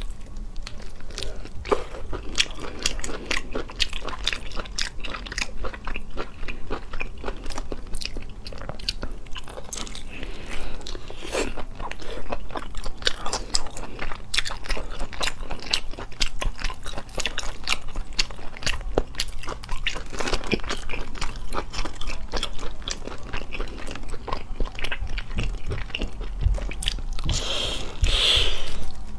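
A person biting and chewing whole braised baby octopus: a dense run of small clicks and smacks from the mouth, louder near the end while she sucks the tentacles into her mouth.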